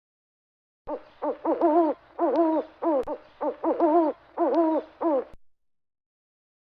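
An animal giving a run of pitched calls: a few short notes, then longer wavering ones, stopping about a second before the end.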